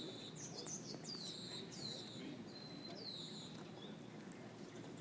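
A small songbird chirping: a string of high chirps, each sliding down in pitch, repeated through the first three and a half seconds or so, over a low murmur of distant voices.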